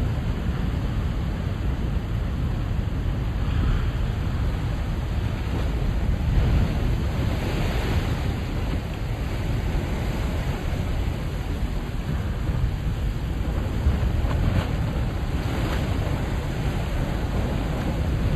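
Ocean surf washing against a rocky tide-pool shore at high tide, a steady dense rush with waves swelling louder a few times. Wind rumbles on the microphone underneath.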